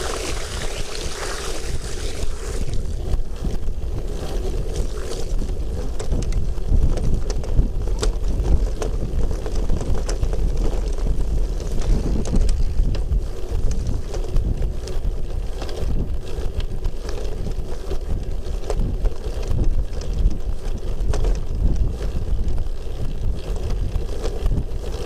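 Wind buffeting the microphone: a steady, gusting low rumble, with a few faint clicks scattered through it.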